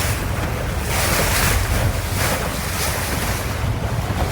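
Loud rushing of sea water and wind buffeting the microphone, a steady roar with a deep rumble that keeps swelling and easing.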